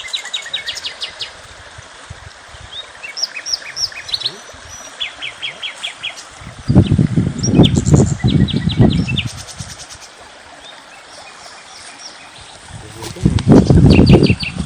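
Small birds chirping, with quick repeated trills and short whistled notes. Twice, loud low rumbling bursts cover them: once for about two seconds in the middle and again near the end.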